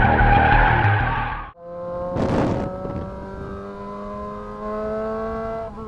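Electronic intro music that cuts off about a second and a half in, followed by a Kawasaki ZR250 motorcycle engine running, its pitch rising slowly and steadily, with a brief burst of noise shortly after the cut.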